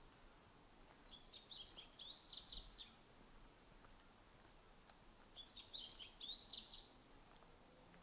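A songbird singing two quick, jumbled phrases of high chirping notes, each lasting about two seconds, the second starting about four seconds after the first, over a faint steady background hiss.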